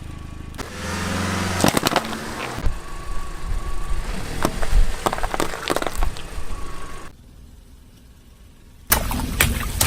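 A car's tyres rolling over and crushing objects: a series of sharp cracks and snaps over engine rumble, broken up by abrupt cuts, with a quieter stretch about seven seconds in.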